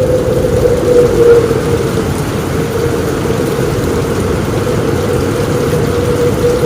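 Heavy rain on a roof in strong wind, loud and steady, with a deep continuous rumble and a steady moaning tone running through it.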